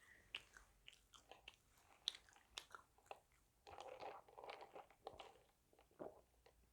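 Close-up chewing and crunching of food from a fried chicken and burger set meal. Sharp crunches come throughout, with a denser stretch of chewing about four seconds in.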